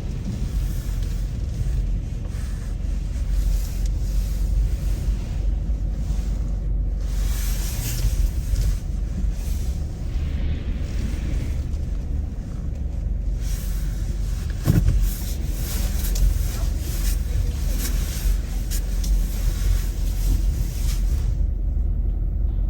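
Car driving, heard with a steady low road rumble and a hiss of tyre noise that swells and fades. There is a single knock about fifteen seconds in.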